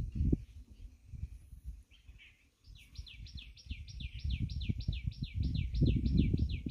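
A bird calling in a fast, steady series of short downward-sliding notes, about four a second, starting nearly three seconds in. A low rumble runs underneath.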